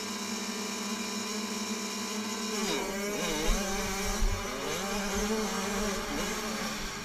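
Motocross dirt bike engines running, held steady at first, then revving up and down from about three seconds in. Two low thumps stand out a second or so later.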